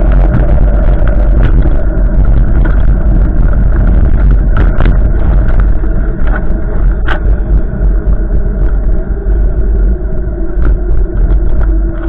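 Strong wind gusting across the microphone, a heavy, loud low rumble, with scattered sharp clicks and rattles, the loudest about seven seconds in.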